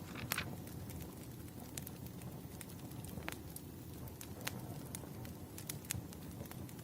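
Wood fire crackling: scattered sharp pops and snaps over a low steady rumble of burning logs, the loudest pop just after the start.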